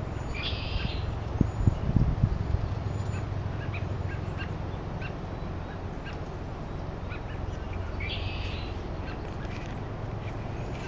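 Red-winged blackbirds singing their buzzy trilled song twice, once near the start and again about eight seconds in, among many short chip calls of other birds. A few low thumps come about two seconds in, over a steady low rumble.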